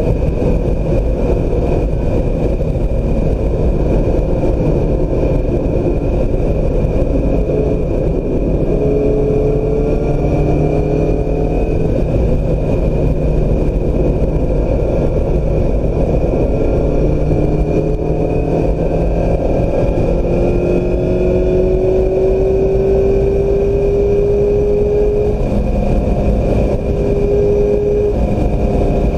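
Onboard sound of a 2016 Mazda MX-5 Miata's 2.0-litre four-cylinder at track pace, its note rising under acceleration and dropping back at shifts and braking, under heavy wind and tyre noise.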